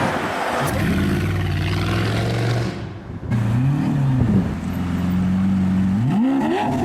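Supercar engine revving loudly: held at steady revs, a quick blip up and back down about halfway through, then steady again before the revs climb near the end.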